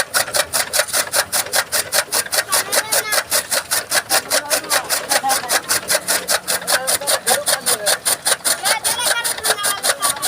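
Fodder chaff cutter (toka machine) chopping green maize stalks, a fast even chop about five or six times a second.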